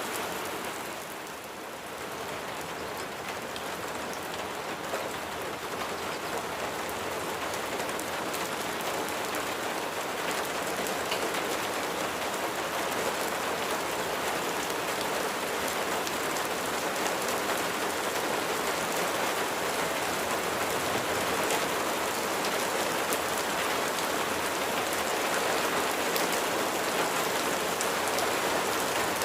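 Steady rain falling on a surface: a dense hiss with many individual drops ticking through it. It dips briefly about a second in, then slowly grows louder.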